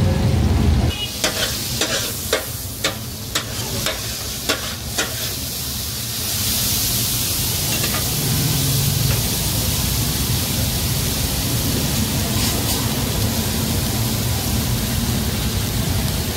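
Chopped kidneys frying in oil on a large flat metal griddle. In the first few seconds about nine sharp metallic knocks, irregularly spaced, from metal spatulas striking the griddle as the takatak is chopped. After that a steady sizzling hiss.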